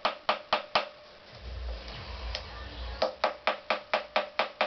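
Rapid, even hammer taps on a tool, about four or five a second, in two runs with a pause of about two seconds between them, trying to knock a stuck engine part loose.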